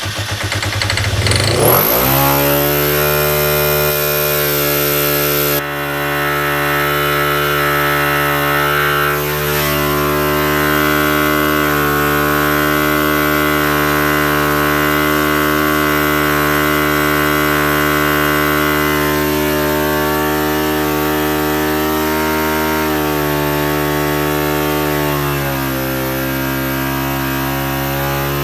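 A 2001 Kawasaki Ninja 250's parallel-twin engine cranks on the electric starter and catches about two seconds in, after a shot of starter fluid on full choke. It then runs steadily at a racing idle near 9,500 rpm. The pitch steps down a little twice near the end as the idle screw is turned. The owner blames the high idle on a vacuum leak around the air box and intake.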